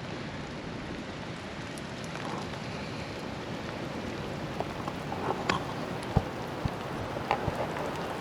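Steady rain falling, with scattered sharper drops landing close by in the second half.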